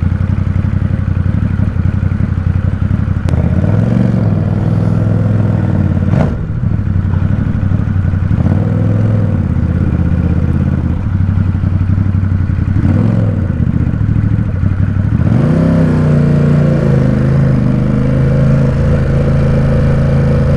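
Ducati Supersport 950 S's 937 cc L-twin engine running at low speed in traffic, its revs rising and falling several times, then holding steadier near the end. A brief knock comes about six seconds in.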